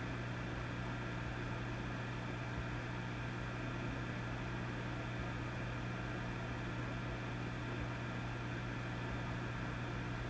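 Vintage valve (tube) amplifier idling with no signal: a steady mains hum, strongest low down with several higher overtones, over a constant hiss.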